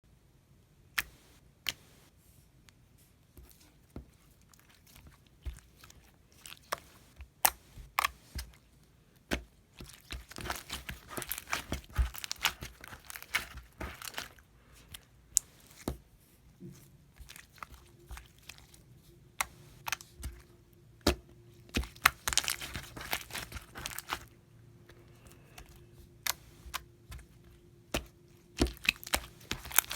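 Homemade slime being squished and stretched by hand, giving scattered sharp pops and clicks, with two longer stretches of dense crackling partway through and again later.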